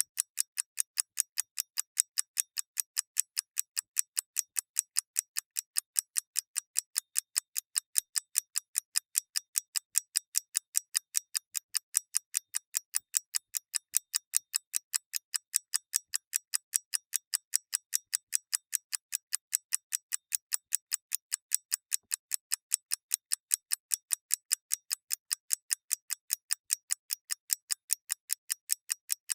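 Clock ticking steadily: crisp, evenly spaced ticks at about four a second, bright and without any low end.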